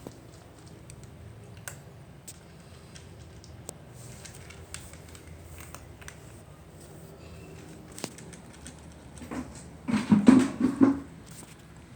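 Cats eating dry food: scattered small clicks and crunches, with a louder cluster of bumps and rustling about ten seconds in.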